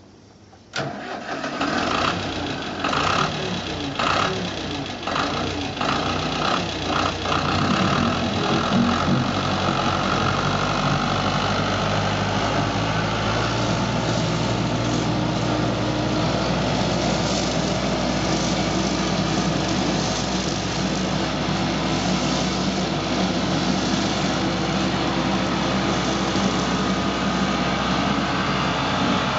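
Tractor engine starting about a second in, running unevenly for several seconds, then settling into a steady run.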